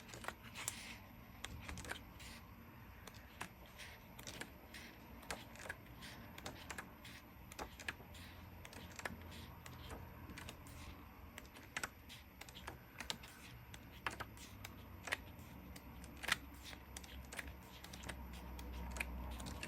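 Thin sheets of a 6x6 patterned paper pad being flipped one after another, each page giving a light flick or tap, roughly two a second at an uneven pace.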